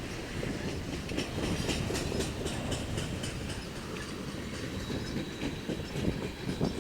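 Train rolling past: a steady rumble of steel wheels on rail, with rapid clicking as the wheels cross rail joints.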